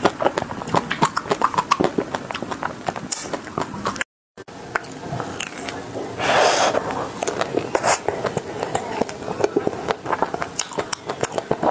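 Close-up mouth sounds of biting and chewing frozen ice cream bars: a dense run of crisp crackles and crunches from the hard frozen coating, with a louder crunchy bite about six seconds in. The sound drops out briefly about four seconds in.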